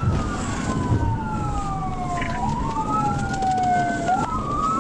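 Police cruiser siren on wail, rising quickly and falling slowly about every two seconds, over the steady low rumble of road and engine noise.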